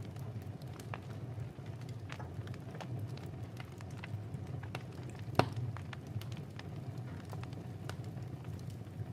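Wood fire crackling in a fireplace over a steady low rumble, with irregular small snaps and one louder pop about five seconds in.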